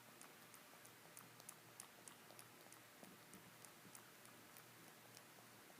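Faint, irregular clicking, several clicks a second, from a pet cat's mouth: the odd noises the cat is making.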